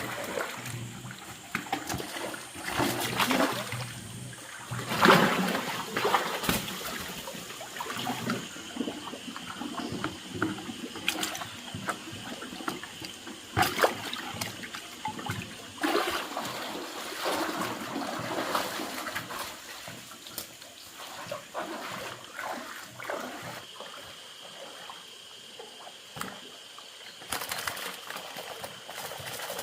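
Water splashing and trickling in irregular bursts, with short knocks.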